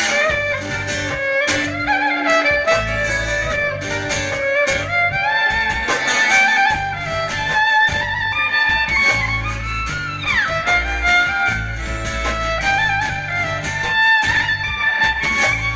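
Live folk-rock band playing an instrumental passage led by fiddle, with a rhythm section underneath; the fiddle slides down in pitch twice, about ten seconds in and near the end.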